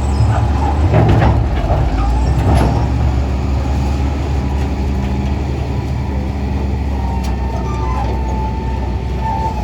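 A large engine running steadily under load, with a high whine that drifts up and down and a few knocks about one to three seconds in.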